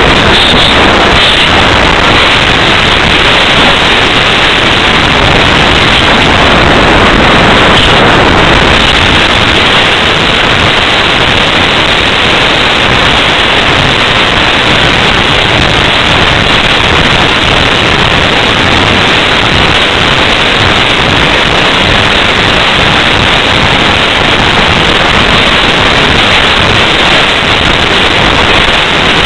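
Loud, steady wind noise rushing over the microphone of a small camera mounted on an unpowered slope-soaring glider in flight.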